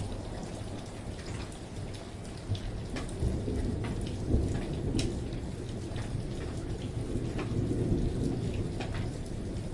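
Steady rain falling, with scattered drops ticking distinctly. A low rumble swells up under the rain about three seconds in and fades near the end.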